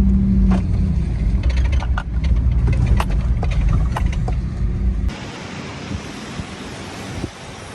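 Pickup truck driving: steady low engine and road rumble with scattered sharp knocks and rattles. After about five seconds it cuts abruptly to a quieter, even hiss like wind on the microphone.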